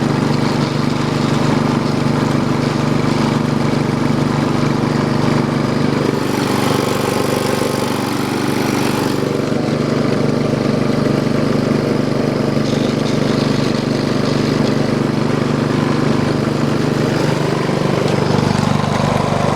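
2010 Briggs & Stratton 3.5 HP single-cylinder small engine, fitted with a heavier flywheel, running steadily on a homemade garden tractor. A brief hiss joins it about six seconds in and fades out about three seconds later.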